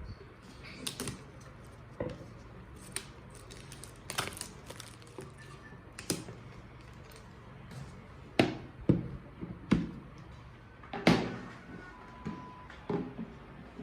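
Household objects being handled and set down: irregular light taps, clicks and knocks, with a run of louder knocks about eight to eleven seconds in.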